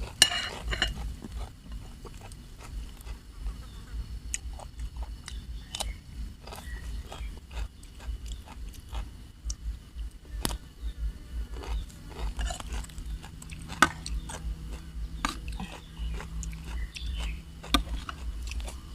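Close-up eating sounds: a person chewing and biting spicy seafood papaya salad with squid, with irregular wet smacks and crunchy clicks.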